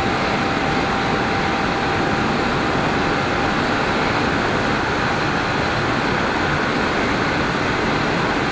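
Steady rush of wind and motorcycle engine while riding at a constant highway speed, picked up by a helmet chin-mounted mic.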